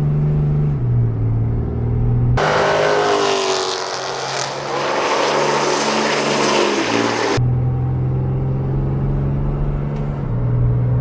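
Drag-strip run with a Dodge Ram 2500 and a 392 Challenger: engines running steadily at the line, then a loud full-throttle launch with the engine pitch climbing. It breaks off abruptly back to steady engine running.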